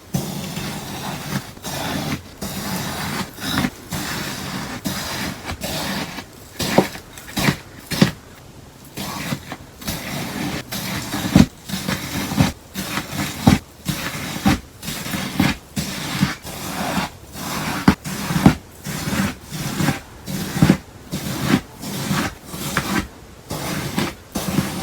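Crisp, crunchy sounds of slime with melamine sponge pieces in it being pressed and squeezed by hand, in repeated strokes about one to two a second that come a little faster in the second half.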